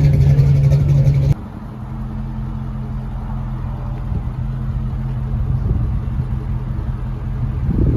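Car engine running loud and deep close by, cut off suddenly about a second in, then a quieter engine holding a steady idle that swells again near the end.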